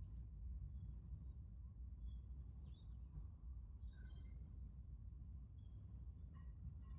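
Faint birdsong: short, high chirping phrases every second or two, over a steady low rumble.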